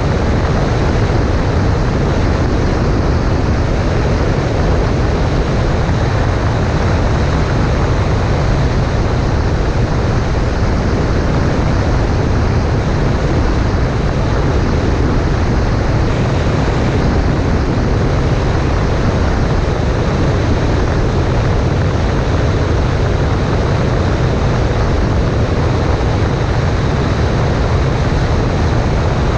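Cessna 140A light plane's engine and propeller running steadily at constant power, with a loud rush of air and no change in pitch.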